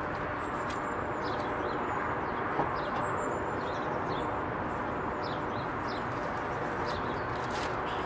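Small birds chirping, many short high calls scattered throughout, over a steady rushing background noise.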